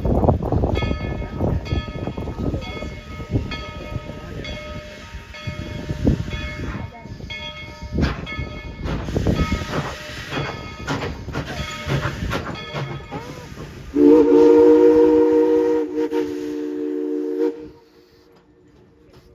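Tweetsie Railroad's steam train rolling along with an uneven clattering rumble. Near the end its steam whistle blows one long chord of several notes for about three and a half seconds, then cuts off sharply.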